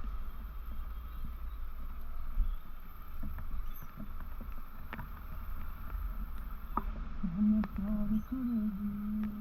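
Low rumble of wind and engine while riding a motorcycle, with a few sharp clicks. About seven seconds in, a steady low drone with small wobbles in pitch joins.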